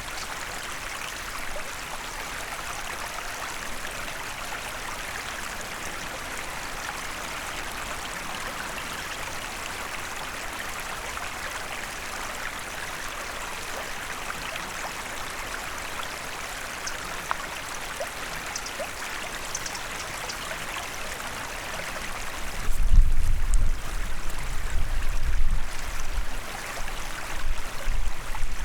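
Forest stream running over stones: a steady rush and babble of water. About three-quarters of the way through, a loud, uneven low rumble sets in and covers the water.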